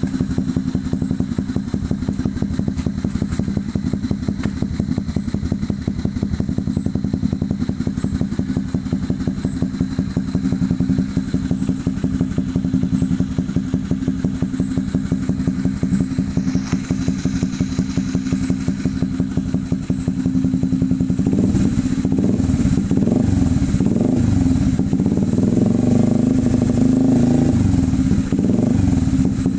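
Honda CB150R's single-cylinder engine idling through an SC Project-style aftermarket exhaust, a steady rapid putter. About twenty seconds in, the throttle is blipped repeatedly, the exhaust note rising and falling and getting louder.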